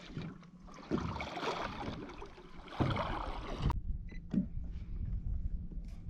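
Water splashing and sloshing around a kayak in two noisy spells, the second cutting off suddenly a little under four seconds in.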